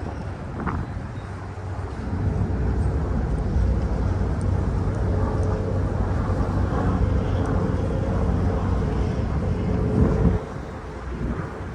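A steady low engine rumble with a droning hum swells about two seconds in and falls away sharply near the end, mixed with wind rumbling on the microphone.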